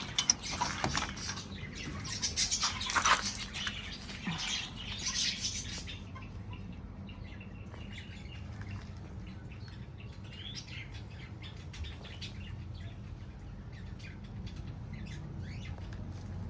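Aviary parrots squawking loudly and harshly for about the first six seconds, then quieter, scattered chirps, over a steady low hum.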